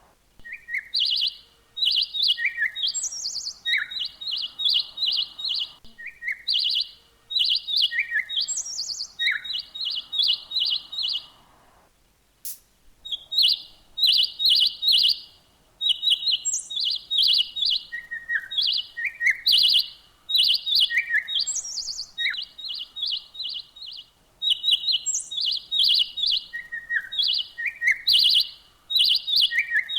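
A songbird singing in quick, repeated runs of high chirps, mixed with short lower down-slurred notes and an occasional higher note. There is a brief pause about twelve seconds in.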